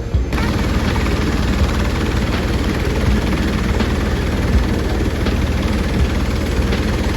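Helicopter running, a loud steady rotor and engine noise with a low throb underneath, starting abruptly a moment in.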